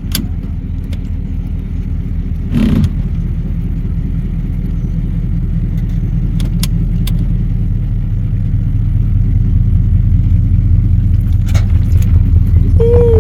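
An engine runs at low speed with a steady, even rumble that grows gradually louder. There is a short knock about three seconds in, and a brief falling cry near the end.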